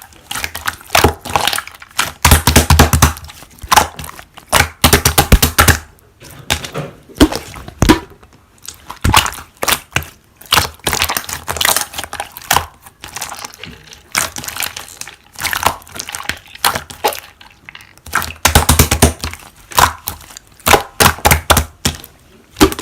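Slime being worked by hand: dense runs of sharp crackling clicks and pops, in clusters with short pauses between them.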